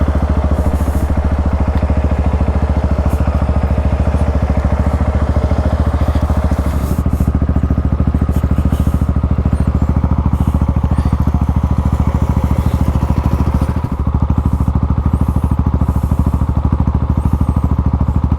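Single-cylinder trail motorcycle engine running at a steady, even speed, with a brief dip about two-thirds of the way through.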